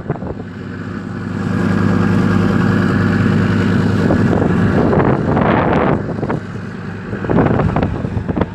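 Motorboat engine running steadily at speed, with wind noise on the microphone; the engine gets louder about a second in.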